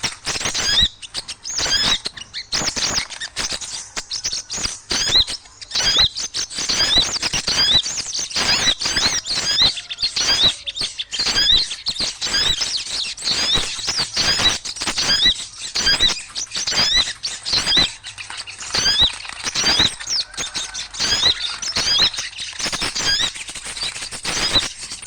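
Noisy chatter of many small birds, with rapid, overlapping high chirps and sharp clicks.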